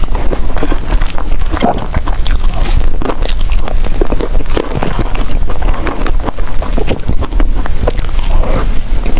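Close-miked eating sounds: biting and chewing soft desserts, a dense run of irregular wet clicks and smacks.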